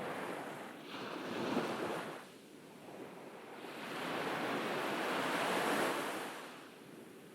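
Ocean waves breaking and washing up a beach: a short surge about a second in, then a longer, louder wash that builds and fades near the end.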